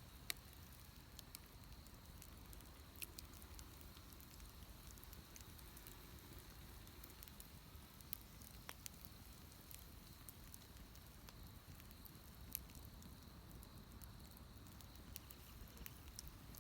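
Bonfire burning quietly, with a low hiss and scattered faint crackles. A few sharper pops stand out, one just after the start and another about three-quarters through.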